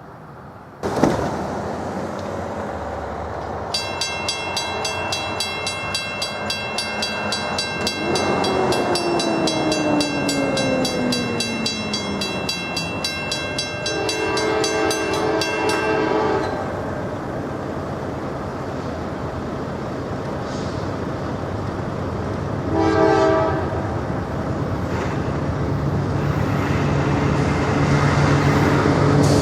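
Diesel freight locomotive sounding its multi-chime air horn in a long blast of about twelve seconds, then a short blast later on, over the running rumble of the train.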